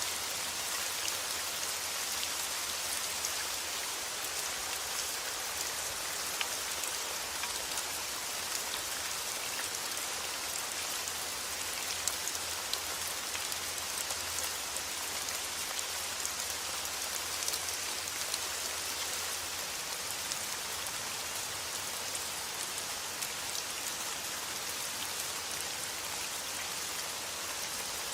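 Steady rain falling, an even hiss dotted with countless small drop ticks.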